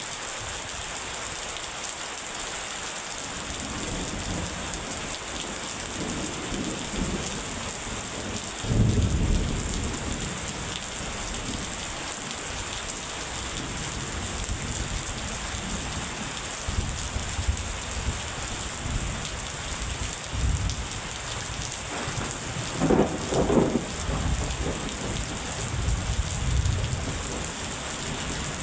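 Steady heavy rain with rolls of thunder rumbling low beneath it, the strongest about nine seconds in and again around 23 seconds.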